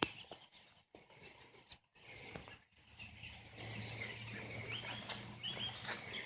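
Faint calls from a flock of birds, mostly American robins, with several short chirps about five seconds in. A low steady hum joins from the middle of the stretch.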